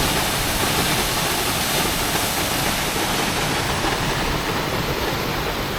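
Small waterfall plunging into its pool close by: a loud, steady rush of falling water.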